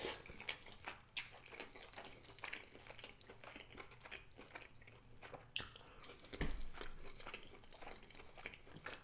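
Close-up chewing and biting of rotisserie chicken eaten by hand, with irregular wet mouth clicks and smacks. A dull thump about six and a half seconds in.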